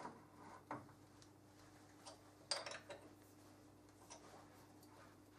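A few faint metallic clicks and knocks, the sharpest cluster about two and a half seconds in, over a low steady hum: a lathe bed stop being set by hand.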